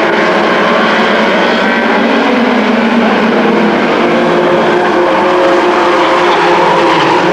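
Several race truck engines running together at speed, their pitches overlapping and drifting slightly up and down.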